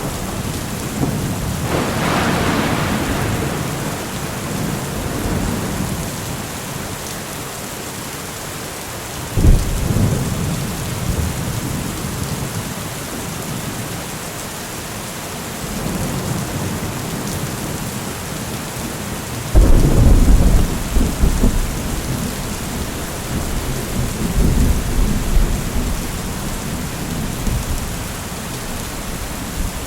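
Steady rain hiss with thunder. A rumble swells about two seconds in, a sharper clap comes about a third of the way through, and the loudest crack hits about two-thirds through, rolling on as low rumbling for several seconds.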